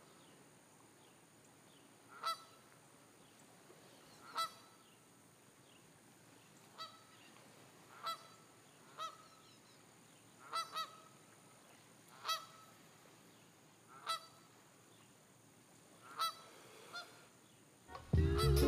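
Faint single honks of a goose, one short call every one to two seconds. Loud music starts just before the end.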